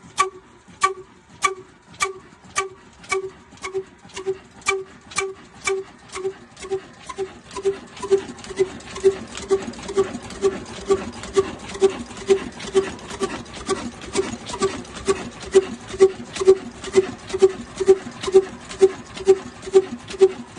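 Old diesel engine running slowly just after a hand start, with one sharp exhaust beat about twice a second. The beats quicken slightly and grow louder as it picks up speed.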